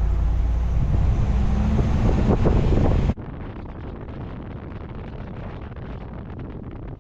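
Pickup truck engine and road noise while driving, loud and rumbling with wind on the microphone, the engine pitch rising briefly about two seconds in. About three seconds in it cuts abruptly to a much quieter steady driving rumble.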